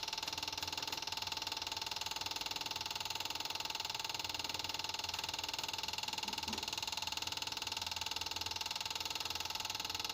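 Electric fuel pump on a 1988 Tennant 255 sweeper running with the key on, a steady fast buzz, priming the fuel line of an engine that cranks but won't start and seems not to be getting fuel.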